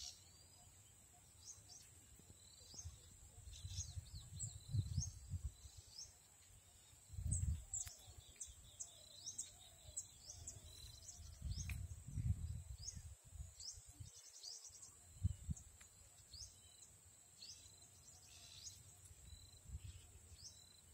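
Small birds chirping, many short quick calls repeating throughout, over a steady thin high-pitched whine. Low rumbles of wind on the microphone come and go.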